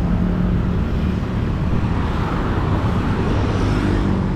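Busy road traffic passing close by: a steady, loud stream of vehicle engines and tyre noise.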